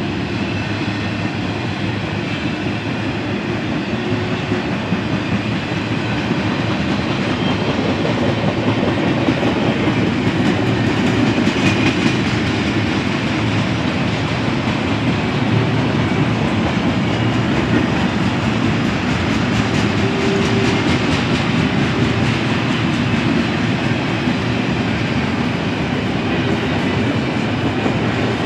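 Norfolk Southern double-stack intermodal train's loaded well cars rolling past, a steady noise of steel wheels on the rails that grows a little louder after about six seconds.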